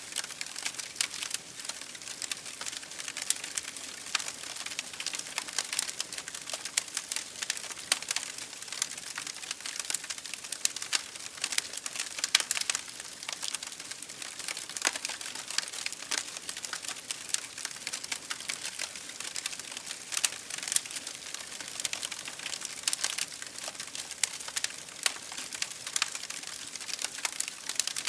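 Wood fire burning in an open fireplace, crackling steadily with many small irregular pops over a soft hiss.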